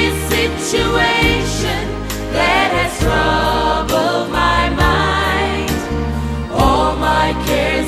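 Choir singing a worship song with instrumental accompaniment and a steady bass.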